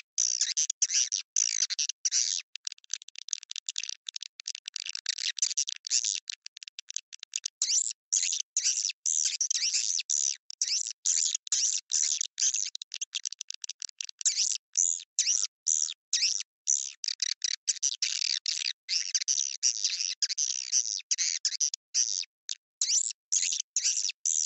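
Swiftlet call-sound recording: dense, rapid twittering chirps of edible-nest swiftlets in quick bursts separated by short gaps, the kind of lure sound played to draw swiftlets into a nest house.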